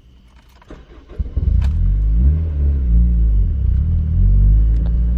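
A 2006 Honda Civic's four-cylinder engine with a Vibrant cat-back exhaust is restarted after a stall. A few faint clicks come first. About a second in, the engine catches with a quick rise and fall in revs, then keeps running steadily.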